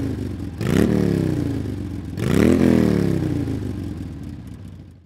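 Motorcycle engine revved in three throttle blips. Each rises sharply in pitch and falls back slowly, and the last fades away near the end.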